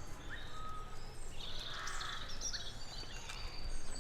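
Birds calling over a steady low outdoor rumble: a harsh, half-second call about two seconds in, with thin high whistles and short chirps around it.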